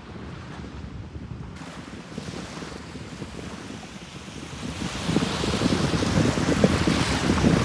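Ocean surf washing onto a beach: low and hushed at first, then a wave building and breaking louder from about five seconds in, with wind buffeting the microphone.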